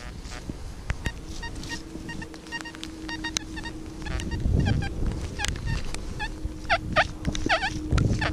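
XP Deus metal detector sounding short, high, clipped beeps in quick clusters as the coil is swept over the ground. From about six and a half seconds in, a series of short falling chirps follows, a few a second, with a low rumble about a second before the end.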